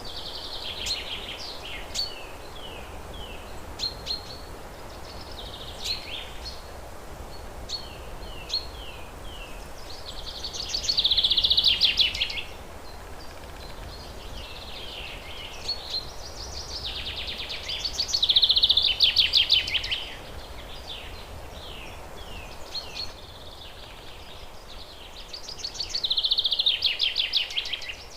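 A songbird calling: sharp high chips and short downslurred notes, broken three times by a loud, fast trill lasting about two seconds, over a faint steady low hum.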